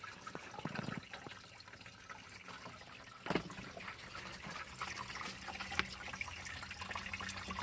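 Spring water trickling and splashing into a plastic bottle as it fills, with a brief knock about three seconds in, after which the flow runs a little louder.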